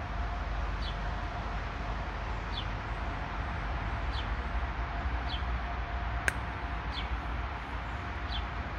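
Outdoor ambience with a steady rushing background and low rumble. A bird repeats a short descending chirp about once a second. One sharp click comes about six seconds in.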